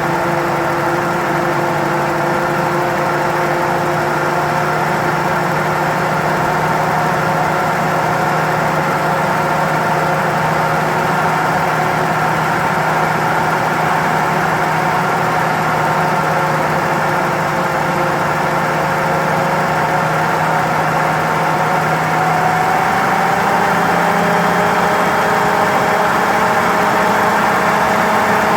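A 1978 Chevrolet Nova's carbureted engine idles steadily on the fast idle after a cold start, held high by the electric choke's cold step. The pitch rises a little near the end.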